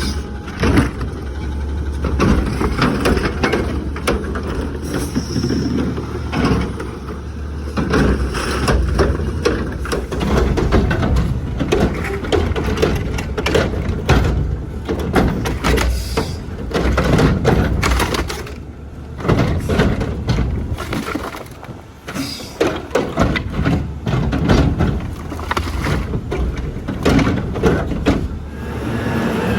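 Garbage truck at work: the engine runs under irregular clattering, cracking and crunching as trash is dumped in and crushed.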